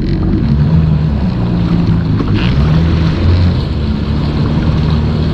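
Yamaha WaveRunner personal watercraft engine running at low speed, its note rising and falling a little, with some water and wind noise over it.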